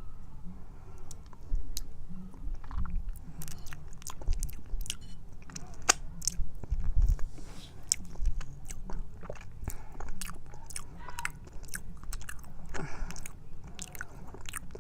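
Close-up chewing of raw honeycomb: sticky mouth sounds, with many irregular sharp clicks and smacks and low thuds as the teeth work through the wax and honey.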